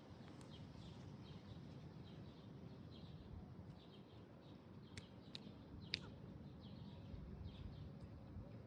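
Faint, short bird chirps repeating about twice a second over a low background hum, with three sharp clicks a little past the middle.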